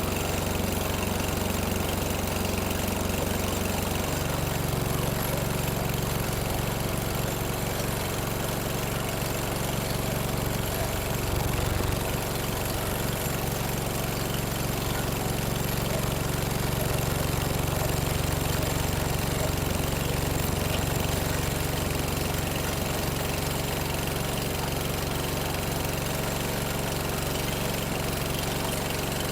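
Toro Recycler walk-behind mower's 7.25 engine running steadily with its air filter element removed; its note shifts about four seconds in. It runs better without the plugged filter, which had been starving it of air.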